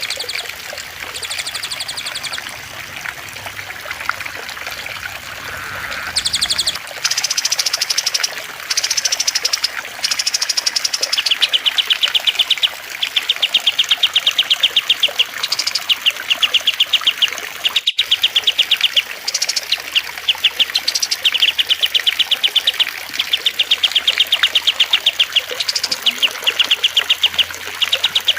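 Songbird masteran mix of cililin, kastemian and lovebird song over steady trickling water. Bursts of rapid, rattling trills come one after another, with higher whistled notes between them. The song grows denser and louder about a quarter of the way in, and there is one sharp click past the middle.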